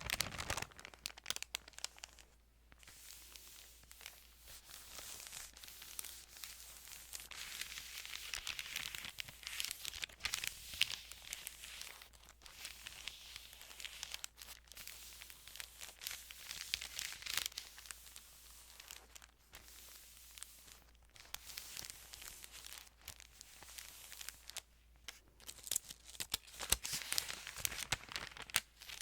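Thin Bible pages being handled and turned, a steady papery crinkling and rustling full of small crackles, with a few brief pauses.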